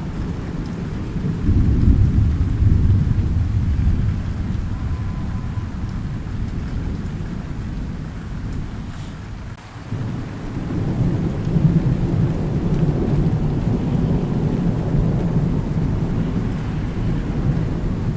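Thunder rumbling over steady rain. A low roll swells about a second and a half in and slowly fades, drops away briefly near the middle, then another rumble builds and carries on.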